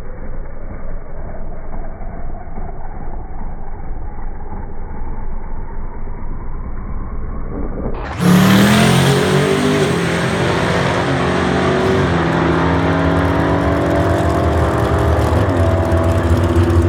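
Twin-turbo Chevy pickup engine running. It is muffled and dull at first, then switches abruptly about halfway through to a louder, clearer engine note whose steady pitch drops a few times.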